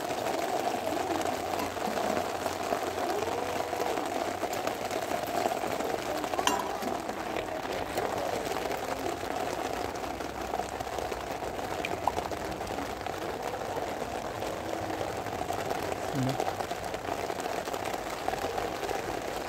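Rain falling steadily on a stretched plastic sheet, an even hiss that does not let up.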